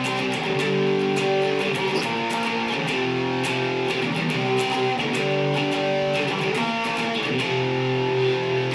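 Mexican-made Fender Stratocaster electric guitar with Lace Sensor pickups, played on the middle and bridge pickups together through distortion: chords strummed and left ringing, changing about once a second.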